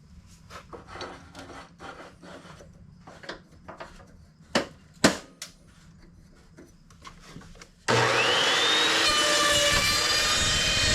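Lumber being handled, with scattered rubbing and clicks and two sharp knocks about halfway through. About eight seconds in, an electric power saw switches on, its whine rising as it spins up, then runs steadily.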